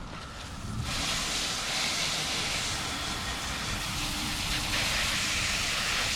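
Water spraying steadily from a hose, starting about a second in.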